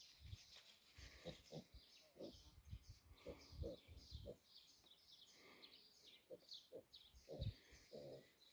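Piglets grunting softly now and then, with birds chirping.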